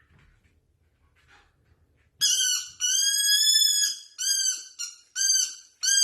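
A pet's high-pitched whining: after a quiet start, one long drawn-out call about two seconds in, then several short ones, each rising and falling slightly in pitch.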